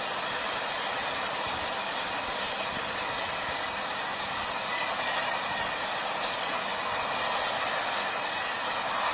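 Indian Railways passenger train's coaches running past at speed: a steady rush of wheel and rail noise that grows a little louder about five seconds in.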